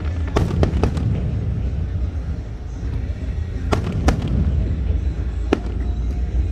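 Aerial fireworks going off: sharp bangs at irregular intervals, three in quick succession within the first second and a few more spaced out after, over a steady low rumble.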